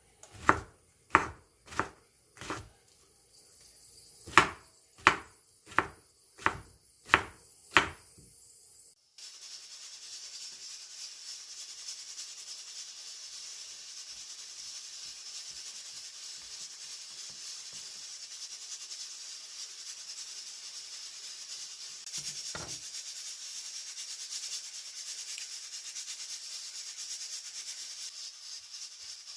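Kitchen knife chopping on a cutting board: about ten sharp, evenly spaced chops in the first eight seconds. It is followed by a steady high hiss that lasts to the end, with a single low knock partway through.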